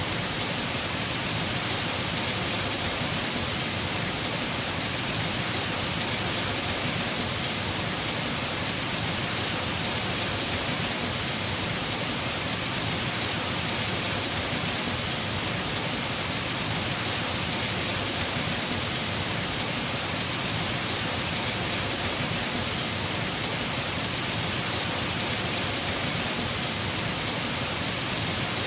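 Heavy rain falling steadily on a house roof, an even, unbroken hiss with no distinct drops or thunder standing out.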